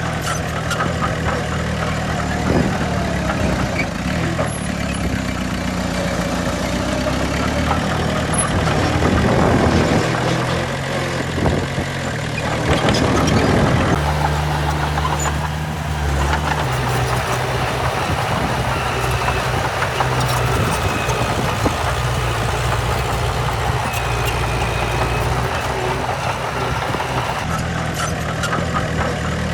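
Heavy diesel engines of earthmoving machines, a dump truck and a bulldozer, running at work. The engine note changes pitch and strength about halfway through.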